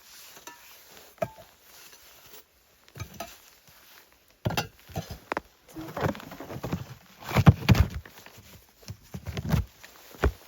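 Footsteps in deep snow, uneven and irregular: faint for the first few seconds, then a run of heavier steps from about four seconds in.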